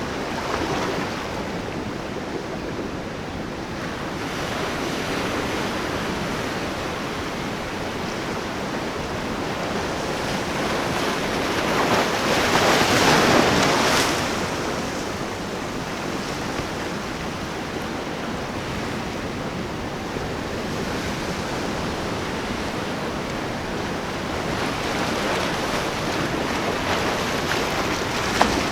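Ocean surf washing and breaking at a rough inlet, a steady rush of water that swells into one louder wave crash about halfway through.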